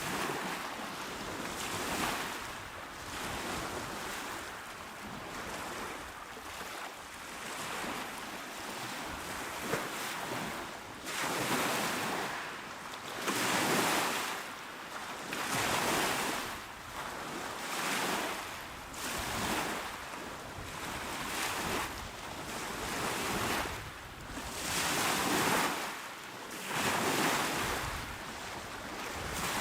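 Calm sea waves breaking and washing onto the shore, the surf swelling and falling back every few seconds.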